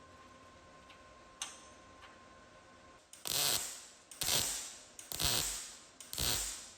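A hand tool at work on the car: one sharp click, then four mechanical strokes about a second apart, each starting sharply and fading.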